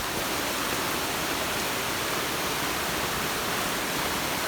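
Steady rush of fast-running floodwater. A brief low thump right at the start.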